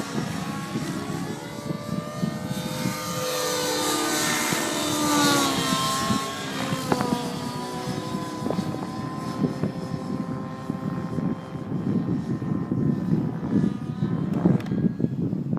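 Nitro-engined radio-controlled helicopter (Align T-Rex 700 Nitro) flying, its glow engine and rotor tone rising and falling in pitch as it manoeuvres. About halfway through the tone grows fainter and gusty wind buffeting the microphone takes over.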